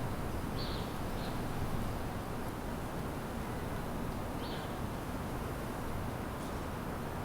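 A steady low background rumble with three short, high bird chirps: two about a second in and one past the middle.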